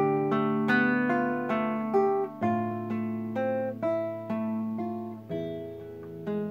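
Solo acoustic guitar playing a melodic fingerpicked piece: single plucked notes, a few a second, ring out over sustained bass notes.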